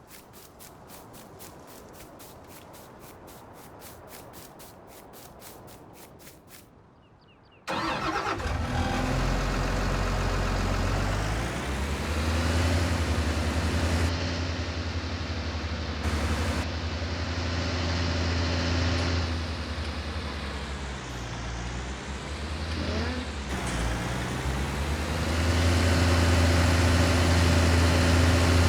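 A trial truck's engine comes in suddenly and loudly about eight seconds in, then runs with its revs rising and falling several times. Before it there is a fainter stretch with a fast, even ticking.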